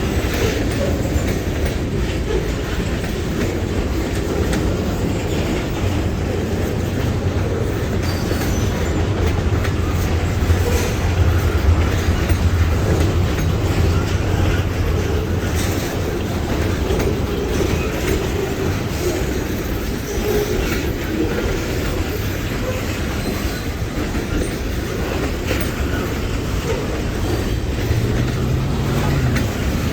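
A long freight train's cars rolling past at close range, a steady stream of wheel clicks and clacks over the rail joints and a continuous rumble.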